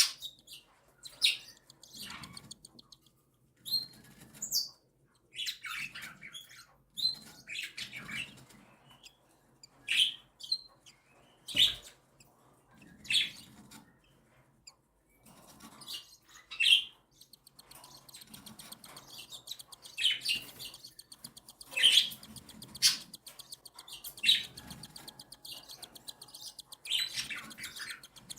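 Cockatiel chicks begging to be fed: short, high, rasping calls in bursts every second or two.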